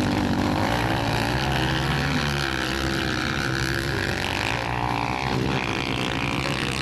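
Several motocross bikes running at once, their engines revving up and down.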